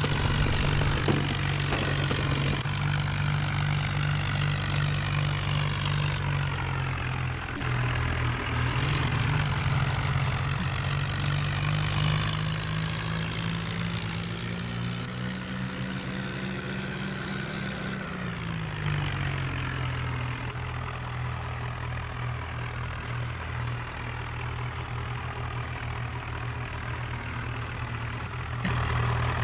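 Tractor engine running steadily with a low, even note. Its pitch climbs gradually for several seconds past the middle, then drops back to its earlier note.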